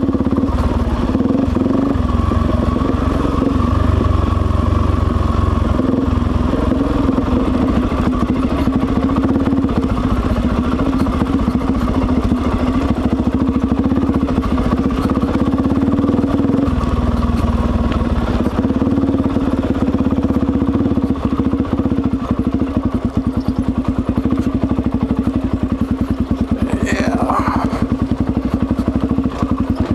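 Suzuki DRZ400's single-cylinder four-stroke engine running as the bike is ridden, its pitch drifting slightly up and down; from about twenty seconds in the engine's beat becomes more pronounced and uneven.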